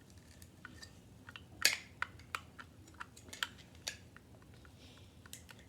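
Plastic LEGO bricks clicking and clattering as pieces are handled and fitted together: a scatter of small sharp clicks, the loudest about a second and a half in.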